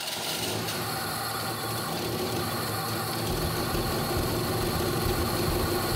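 Car engine idling just after a cold start, running steadily, its low rumble growing stronger about three seconds in.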